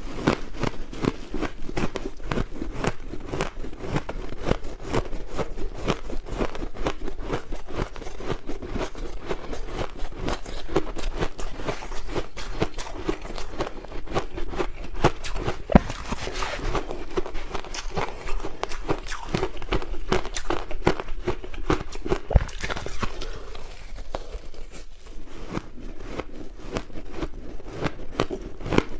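Close-miked chewing of crushed ice in the mouth: a dense, continuous run of crisp crunches and cracks as the ice fragments break between the teeth.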